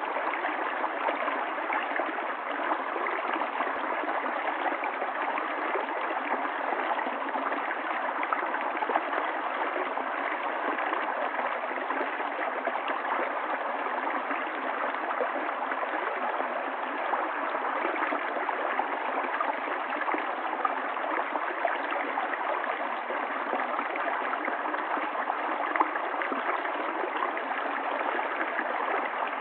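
Running stream water flowing steadily, an even rush with no breaks or changes.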